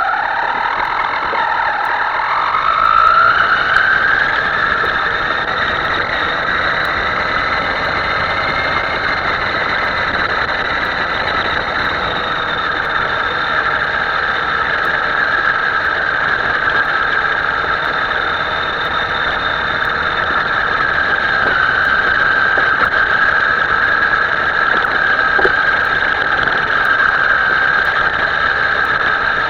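Small electric motor of a Himoto radio-controlled model whining as it runs, rising in pitch over the first three seconds or so, then holding a steady pitch.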